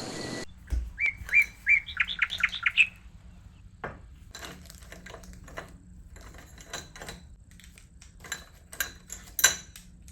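A small bird chirping: a few short notes, then a quick rising trill. After that come scattered light clicks and taps, like small household objects being handled, the sharpest near the end.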